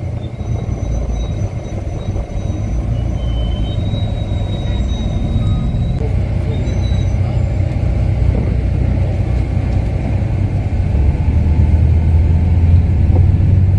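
City bus engine and road rumble heard from inside the cabin while the bus is moving: a steady low drone that grows louder over the last few seconds.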